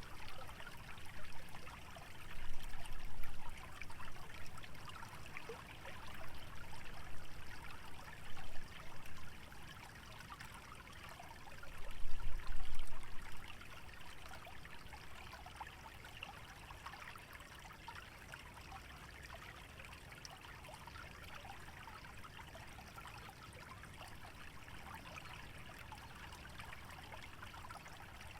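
Small stream trickling and babbling steadily through a wetland. Low rumbling gusts swell about three seconds in and again near the middle, the loudest moments.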